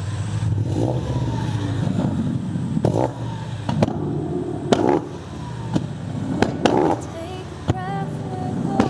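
Car engines running, with people's voices and several sharp clicks or knocks; a wavering tone comes in near the end.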